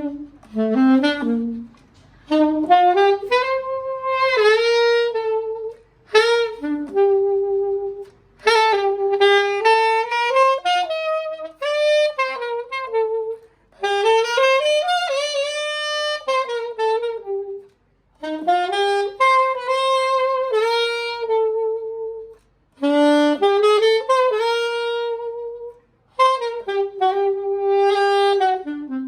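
Conn alto saxophone played solo: melodic phrases of a few seconds, several ending on a held note, separated by short pauses for breath.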